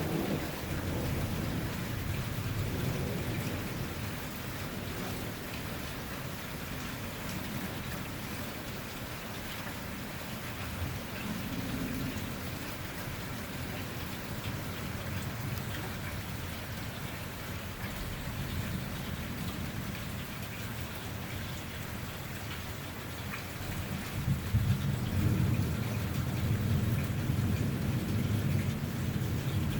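Heavy rain falling steadily during a thunderstorm, with low rolls of thunder rumbling under it, the loudest from about four-fifths of the way through to the end.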